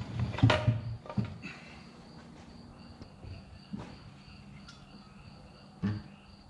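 Knocks and clunks from heavy parts being handled: a quick cluster in the first second, then single knocks near the middle and near the end, over a faint steady high insect chirring.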